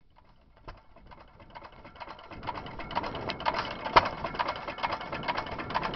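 1916 Stover Y hit-and-miss gas engine running on battery-and-coil ignition: a rapid, steady clatter of clicks from its valve gear and igniter, fading up from quiet over the first two seconds, with one sharper knock about four seconds in.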